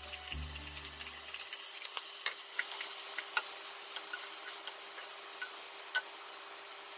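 Broccoli and potato pieces sizzling in oil in a hot frying pan, a steady hiss with scattered light clicks and taps as the food is moved about with chopsticks.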